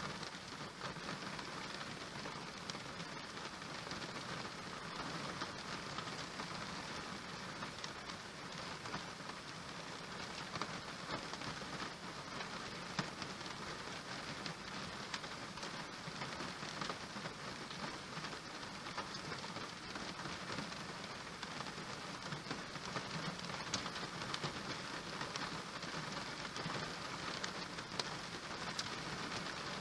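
Steady rain, an even hiss dotted with many small, quick drop hits.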